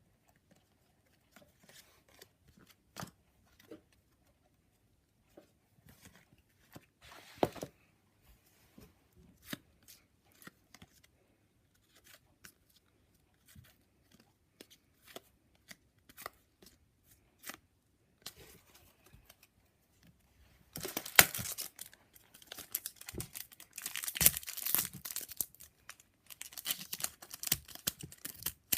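Trading cards handled with scattered light taps and flicks, then, about two-thirds of the way in, a crinkly foil card packet torn open and crumpled, much louder and continuous.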